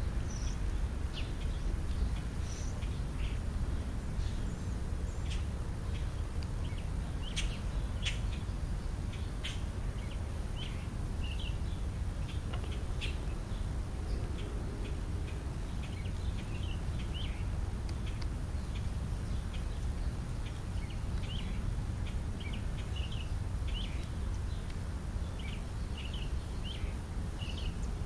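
Birds chirping in short, scattered calls throughout, over a steady low rumble.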